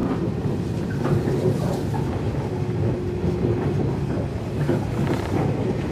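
Running noise heard from inside a JR 115 series electric train car at speed: a steady rumble of wheels on rail, with a faint steady tone for about a second near the middle.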